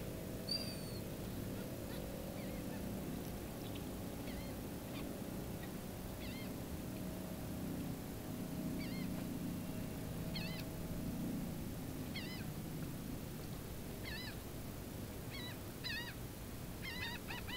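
A bird giving short, arched calls every second or two over a steady low background, speeding into a quick run of calls near the end.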